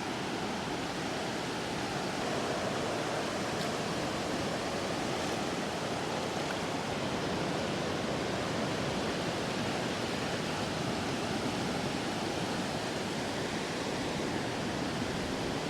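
Steady wash of surf on a sandy beach: an even, unbroken rushing noise.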